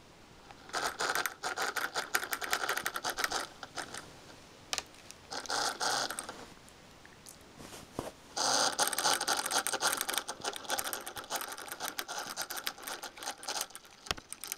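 Cooling fan of a Sony VAIO VGN-CS220J laptop making a rapid scraping rattle that comes and goes in bursts: a short one early, a brief one in the middle, and a long one through the second half. The noise is the sign of a faulty fan that the owner means to replace.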